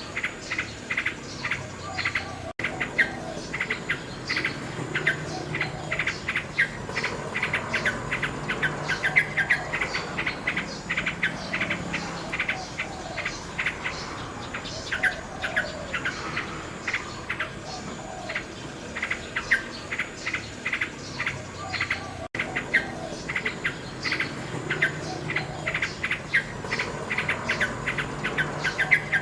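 Nightingale song with a dense chorus of rapid insect chirps, many per second, running on without a break except for two momentary dropouts, one a couple of seconds in and one near the end.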